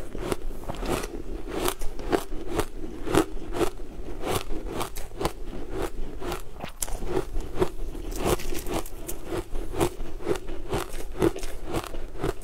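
A person chewing crunchy food close to the microphone: a quick, uneven run of crisp crunches, two or three a second.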